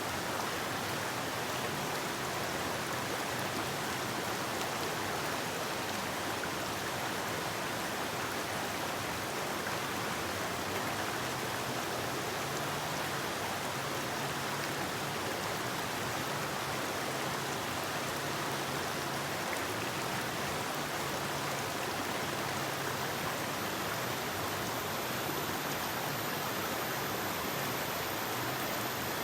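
Forest river flowing, a steady rush of water over rocks with no change in level.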